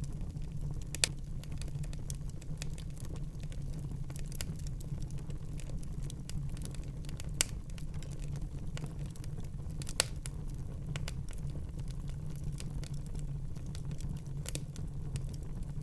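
Fireplace fire crackling steadily over a low rumble of flame, with a few sharper pops: about a second in, about halfway through and again a few seconds later.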